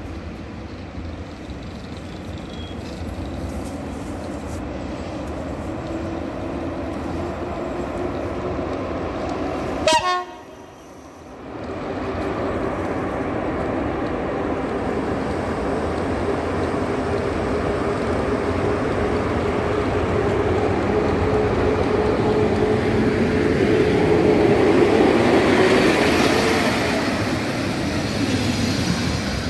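Electric locomotive EP07 and its passenger coaches running past, with a steady whine that slowly rises in pitch and grows louder to a peak about 25 seconds in. A sharp click about ten seconds in is followed by a brief drop in level.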